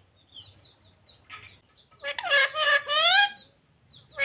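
Pet green parrot calling: faint short chirps, then about halfway in a quick run of four or five loud, rising, high calls.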